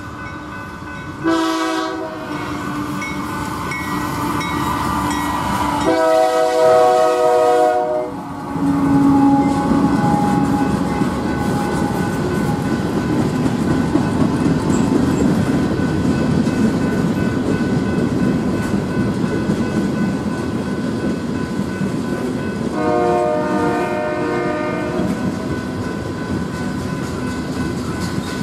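A diesel freight train's air horn sounds a short blast about a second in, a long blast around six seconds in and another near the end. The locomotives pass and the freight cars roll by with a steady rumble and clickety-clack of wheels on rail joints.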